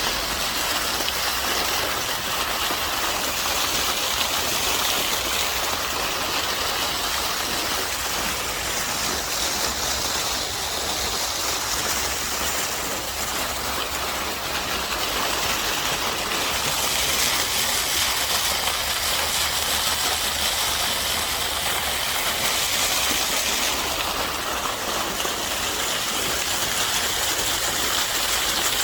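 Steady rushing of a stream's running water, with a low rumble underneath.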